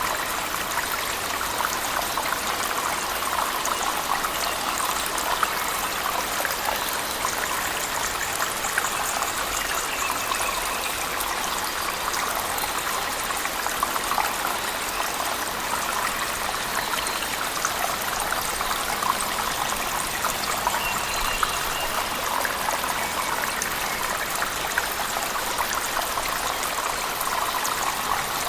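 Cave waterfall mixed with heavy rain: a steady, unbroken rush of falling water, dense with fine spattering drops.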